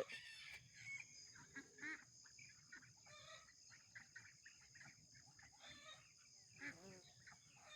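Faint scattered clucks and calls of farmyard poultry, a few every couple of seconds, over a steady high-pitched insect trilling.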